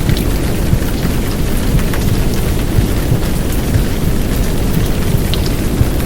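Heavy downpour rain layered over a low, muffled womb sound with a heartbeat: a dense, steady rushing that is heaviest in the low end, with irregular soft low pulses.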